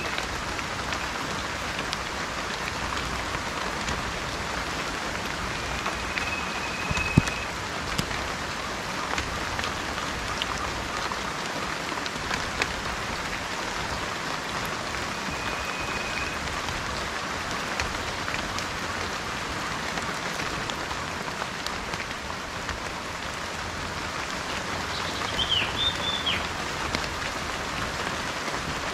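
Steady rain falling, with single drops clicking now and then. A bird gives two short, level whistled notes and, near the end, a quick, falling call.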